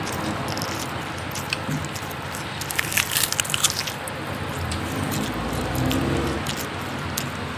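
Wet eating sounds of biting into and chewing a cooked pig's foot, gelatinous skin and meat pulled from the bone, with a cluster of sharp smacking clicks about three seconds in.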